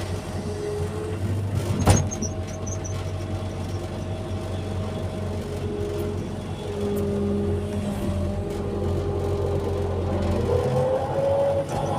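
Hydraulic excavator working: the diesel engine runs with a steady low hum while the hydraulic whine shifts pitch as the arm and bucket move, rising near the end. A sharp knock about two seconds in.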